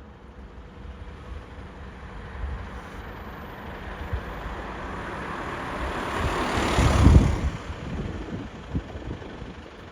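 A heavy road vehicle driving past, its engine and tyre noise growing louder to a peak about seven seconds in and then fading.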